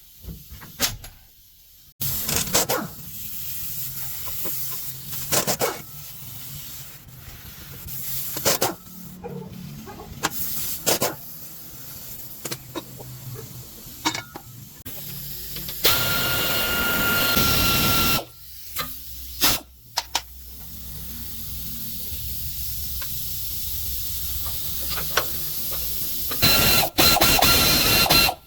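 Workshop tool sounds during truck gearbox repair: scattered metal knocks and clicks over a steady hiss, with two bursts of a whining power tool, about two seconds each, one midway and one near the end.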